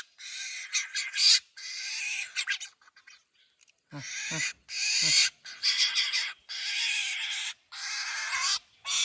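A young bird's harsh, hissing begging calls, repeated as rasps of about half a second to a second each with short gaps between.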